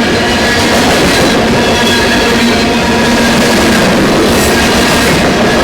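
Railroad cars of a passing train rolling by at close range: a loud, steady rush of wheels on the rails, with a few steady tones ringing over it.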